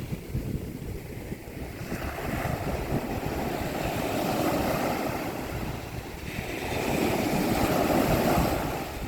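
Mediterranean Sea waves breaking on a beach: surf swells up and washes in twice, each wave rising to a peak and then fading.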